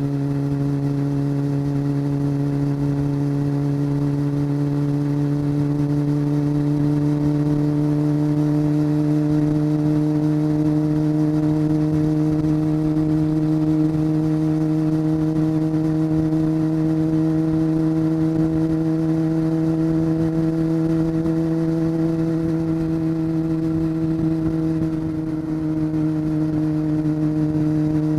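Honda CBR600 F4's inline-four engine running steadily while riding, its pitch slowly climbing as the bike gains speed, with a brief dip near the end.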